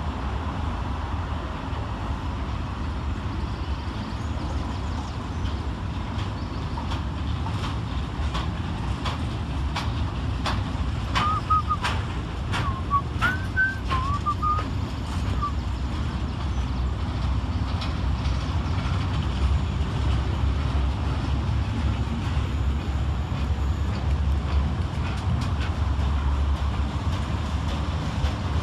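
Class 66 diesel-hauled freight train passing slowly: a steady low rumble, with a run of irregular clicks from the wheels over the rails and a few short high squeals in the middle.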